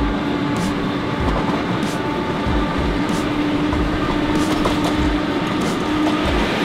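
Passenger train carriage in motion, heard from on board: a steady rumble of wheels on rails with a steady hum and irregular knocks.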